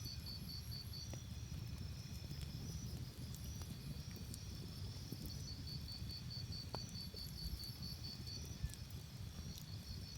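Crickets chirping in repeated high-pitched trills over a steady low rumble of a campfire, with a few faint crackling pops.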